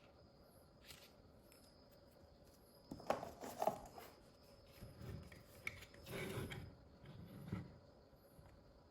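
Handling noises: irregular clicks, rubs and scrapes of small objects, loudest in a cluster about three seconds in and again in the middle.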